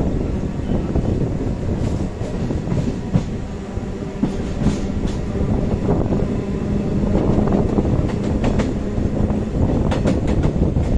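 Passenger train running along the track, heard from an open coach doorway: a steady rumble and rush, with wheels clicking in irregular clusters over rail joints and points. A faint steady low hum runs through the middle.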